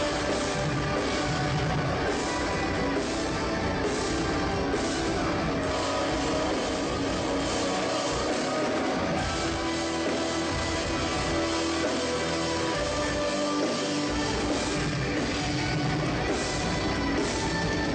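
Metalcore band playing loud and dense: distorted electric guitars, bass and a drum kit.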